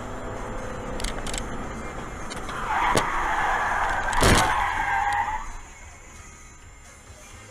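Car tyres screech in a skid for about three seconds, with two hard impacts inside it, about three and four seconds in. The second impact is the louder: a vehicle collision.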